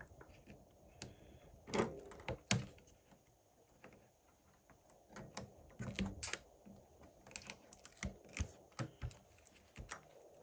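Irregular sharp clicks and taps of small hand tools and parts being handled on a workbench, with a few louder knocks about two seconds in and a run of clicks in the second half.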